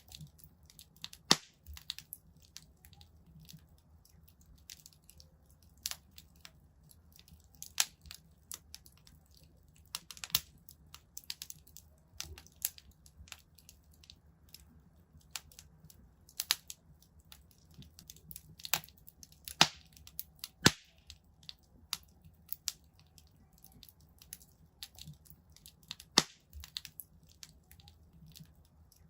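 Wood fire crackling in a fireplace: irregular sharp pops and snaps of burning logs, some much louder than the rest, over a faint low hum of the flames.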